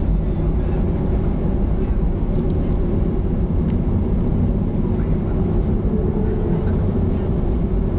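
Steady low rumble of a Boeing 737-300's CFM56 turbofan engines and airflow, heard inside the passenger cabin.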